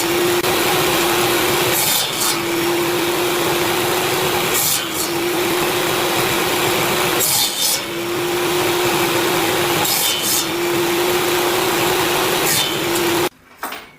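A power tool working a log, running at a steady pitch with brief dips and clicks about every two and a half seconds, then cutting off about a second before the end.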